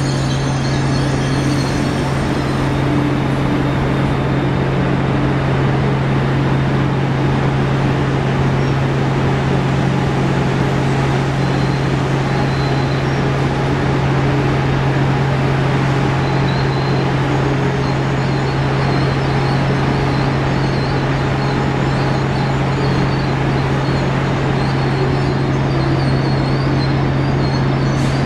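Amtrak Acela Express electric trainset running at the platform: a loud, steady drone with a strong constant low hum under a noisy hiss.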